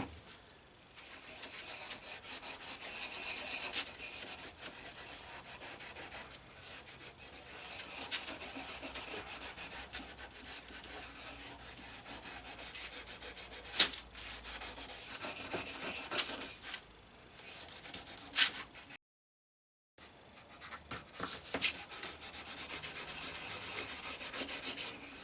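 Steel wool wet with denatured alcohol scrubbing a saw's wooden handle, a steady scratchy rub in repeated strokes, working old grease and grime out of the wood. A couple of sharp knocks cut in, and the sound stops for about a second about three quarters through.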